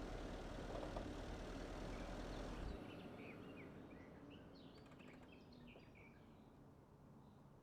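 Low rumbling noise with a faint distant engine in it, which drops away abruptly about three seconds in, leaving small birds chirping.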